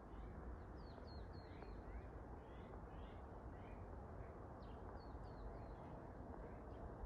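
Small backyard birds chirping faintly: many short, high chirps scattered throughout, over a steady low background hiss.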